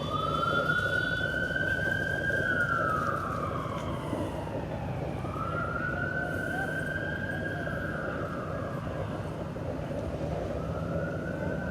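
Emergency vehicle siren in a slow wail, its pitch rising, holding and falling about every five seconds over a steady rumble of engines and traffic.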